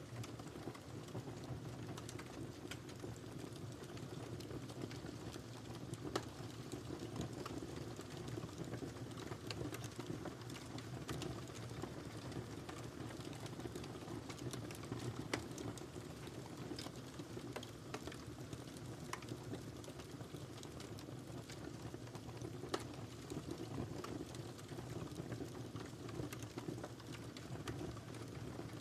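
Wood fire crackling in a fireplace: a steady low rumble with many small scattered pops, and a few louder pops about 6, 15 and 23 seconds in.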